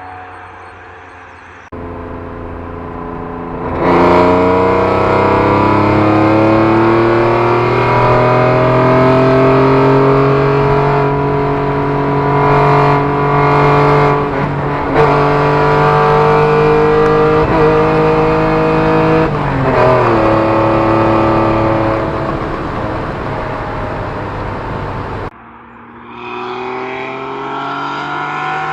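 Eaton TVS 1320–supercharged 2.5-litre KL-DE V6 of a Ford Probe under hard acceleration. It gets suddenly louder about four seconds in, and its pitch climbs steadily for about fifteen seconds, then drops at a gear change before pulling again. Near the end the sound cuts off abruptly and a quieter engine note starts rising again.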